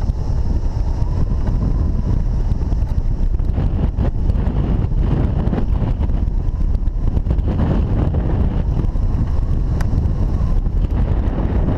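Strong wind buffeting the camera microphone, a loud, steady low rumble of rushing air.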